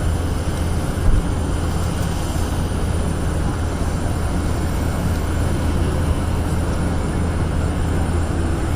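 Aircraft engine noise: a steady rumble that neither rises nor falls.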